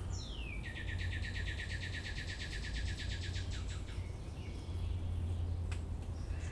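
A songbird singing: one quick falling note, then a fast even trill that lasts about three seconds. A steady low hum runs underneath, and a single faint click comes near the end.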